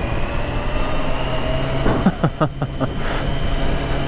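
Motorcycle running along the road with engine and road noise, its engine note rising slowly.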